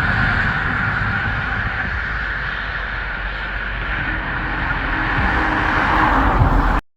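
Steady road noise of a car driving, with engine and tyre rumble and a hiss. It cuts off abruptly near the end.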